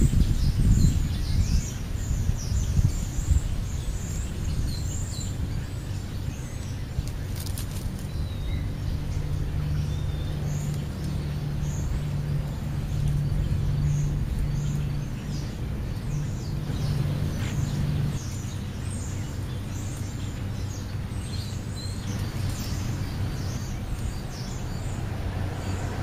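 Birds chirping in short, high calls scattered throughout, over a steady low rumble and hum.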